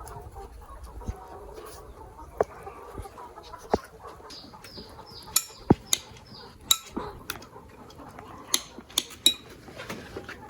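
Chickens clucking, with a run of short, high, falling chirps about halfway through. Sharp clicks or knocks come at irregular intervals throughout.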